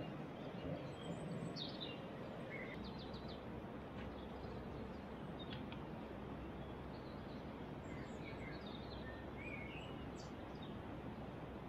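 Small birds chirping now and then, with short high calls and a few quick runs of three or four notes, over a steady background noise.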